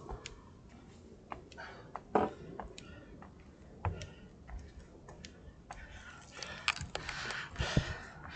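Scattered sharp clicks and knocks at irregular intervals, with a rushing noise building in the last two seconds or so.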